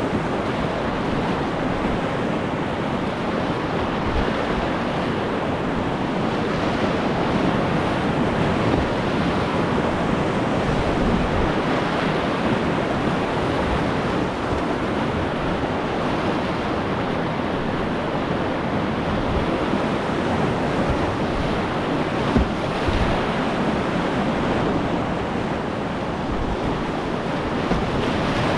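Steady rushing of river whitewater, with wind buffeting the microphone and an occasional low knock.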